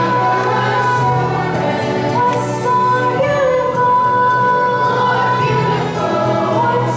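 Music with singing: voices, including a female voice or a choir, hold long sustained notes over steady accompaniment.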